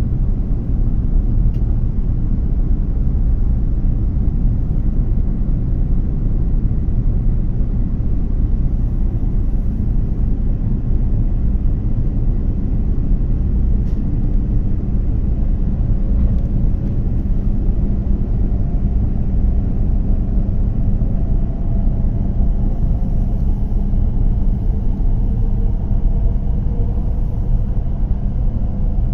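W7 series Shinkansen cabin noise at speed: a steady low rumble from the running train, with a faint whine rising slowly in the second half.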